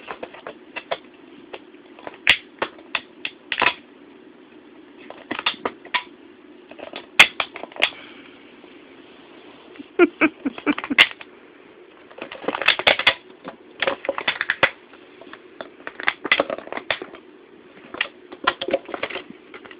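Plastic water bottle crackling and clicking as a cat chews and bats at it: irregular bursts of sharp snaps and quick crinkling runs with short pauses between.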